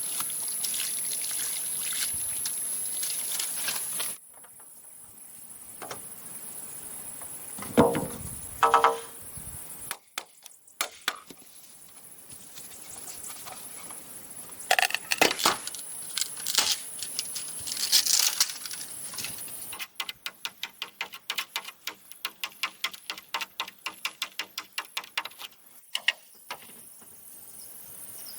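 A steady high insect buzz that cuts off after about four seconds. Then comes a sequence of hand-work sounds: a ringing knock, scattered clicks and taps, and later a run of quick, evenly spaced clicks lasting several seconds.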